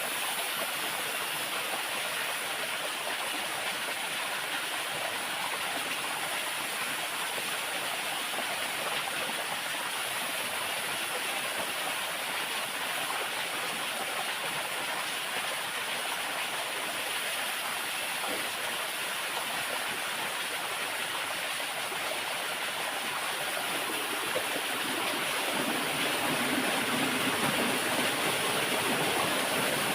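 Steady rushing of a waterfall, an even hiss of falling water that grows a little louder over the last few seconds.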